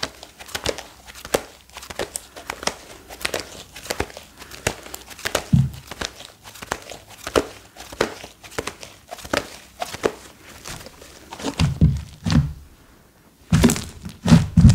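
Slime being squished and stretched by hand, giving fast, irregular sticky clicks and crackles, with a few soft low thuds. It goes quiet for a moment near the end, then louder squishing starts again.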